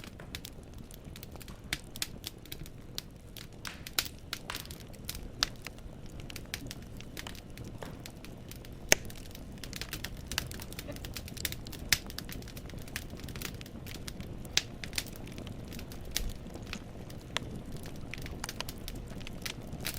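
Wood fire burning in a fireplace: logs crackling with irregular sharp pops over a low steady rumble of the flames. The louder pops come at about 9 and 12 seconds.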